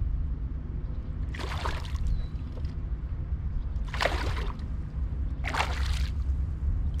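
Water splashing in three short bursts about two seconds apart, over a steady low rumble, as a hooked fish fights at the surface beside a boat.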